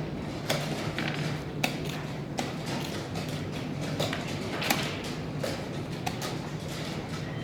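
Chess pieces set down on the board and the chess clock pressed during a blitz game: sharp, irregular clicks about once or twice a second over a steady low hum.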